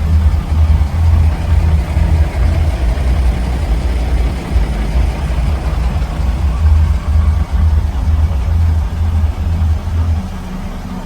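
Diesel engine of a 1964 Scania Vabis L56 truck running at idle, a steady low throbbing rumble that eases slightly near the end.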